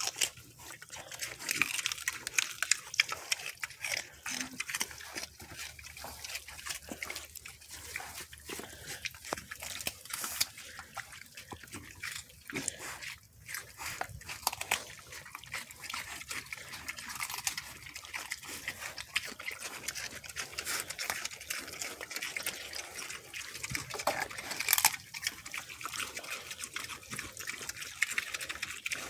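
Mini pigs chewing celery: continuous wet crunching and smacking, a dense stream of short crackles with no pause.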